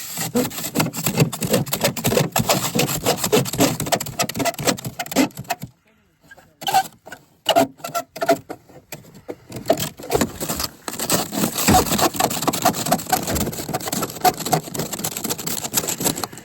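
Rapid, continuous scraping and rubbing strokes against the truck's windshield glass, broken by a pause of about a second roughly six seconds in.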